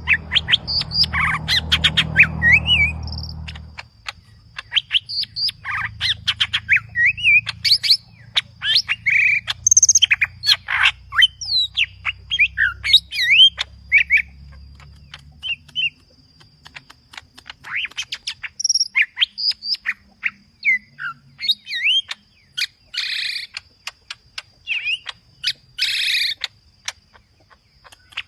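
Cucak ijo (green leafbird) singing loudly in a rapid, varied string of whistles, slurred glides and chirps, packed with mimicked calls of other birds. A low rumble runs under the song for the first few seconds.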